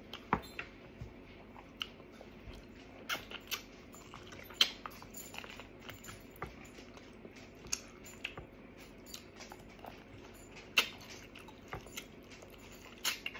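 A person chewing and gnawing meat off a bone, with irregular wet smacks and clicks of the mouth.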